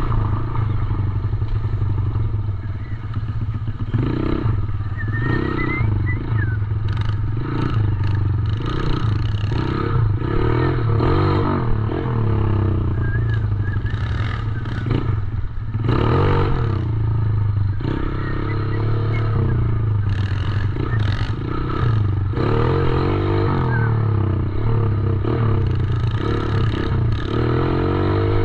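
Small 110cc dirt bike engine running, its revs rising and falling as it is ridden, with irregular rattling over it.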